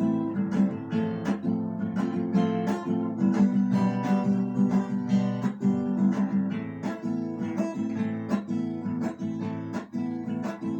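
Acoustic guitar strummed in a steady rhythm, chords without singing.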